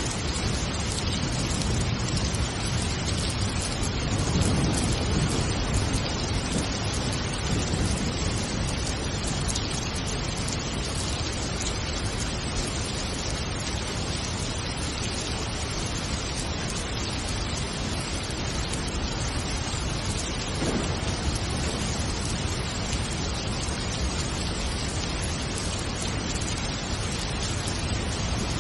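Steady heavy rain hissing, with low thunder rumbling that swells about four to six seconds in.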